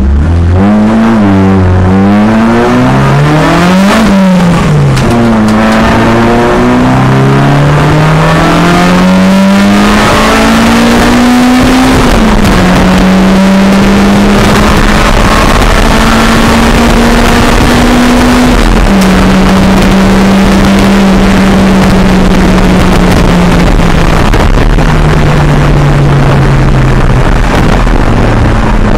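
Race-prepared car's engine heard from inside the cabin, driven hard: the engine note climbs and drops quickly over the first dozen seconds with gear changes and throttle blips, then holds long, slowly climbing notes, each broken off by a drop in pitch, over steady road and wind noise.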